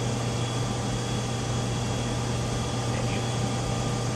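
Steady low electrical hum with an even hiss behind it.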